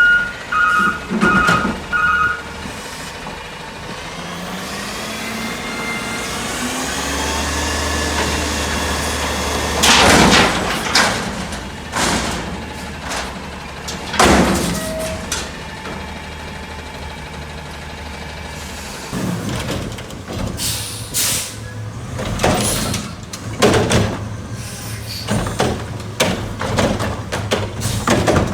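Autocar garbage truck at work: reversing beeps for the first two seconds, then the engine revving up for several seconds to drive the hydraulics. Loud air hisses follow, twice, then a run of clanks and bangs near the end.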